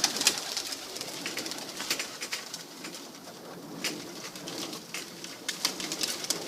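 Tippler pigeons cooing, with many sharp clicks and rustles scattered through it.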